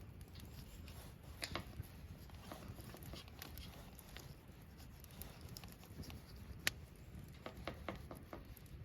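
Faint, scattered clicks and light taps of small objects being handled, with one sharper click about two-thirds of the way through and a quick run of ticks near the end.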